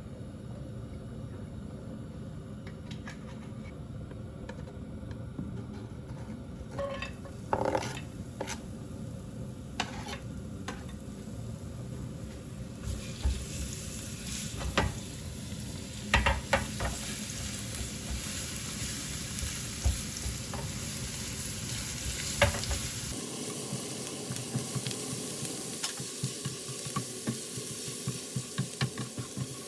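Food sizzling in a hot pan while a utensil stirs it, with scattered sharp clicks of the utensil against the pan. The sizzle turns brighter and hissier about halfway through, and the sound changes abruptly near the end.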